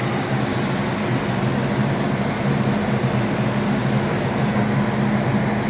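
Air conditioner's outdoor condensing unit running: a steady hum from the compressor under a constant rush of air from the condenser fan, while the system is being charged with R-410A refrigerant.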